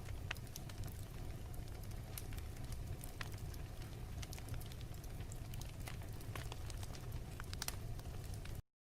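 Fireplace crackling: irregular sharp pops and snaps over a steady low rumble, cutting out to silence for a moment near the end.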